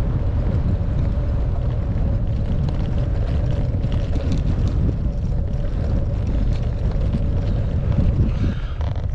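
Wind buffeting the microphone of a bicycle-mounted camera on a steep climb: a loud, steady low rumble, with a faint steady hum under it that fades near the end.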